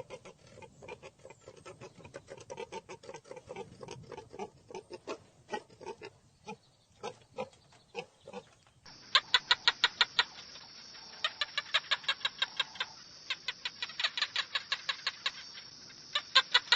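Animal calls: for the first eight or nine seconds a rapid string of short calls, then an abrupt change to a different recording with a steady high-pitched ringing and rapid repeated chirps.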